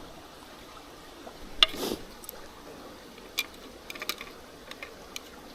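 Light clicks and taps of chopsticks on a metal grill plate while eating, with one sharper clack about a second and a half in, over the faint steady rush of a mountain stream.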